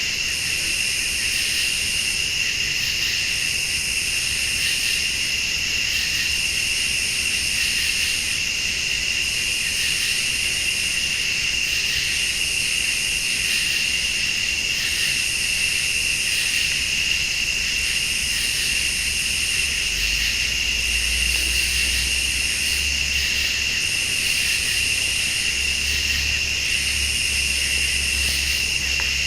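Late-summer night insect chorus: crickets trilling steadily, with a higher-pitched insect pulsing on and off every second or two. A low rumble comes in about two-thirds of the way through.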